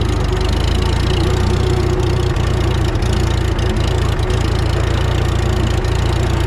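Farmall F20 tractor's four-cylinder engine idling steadily after a hand-crank start.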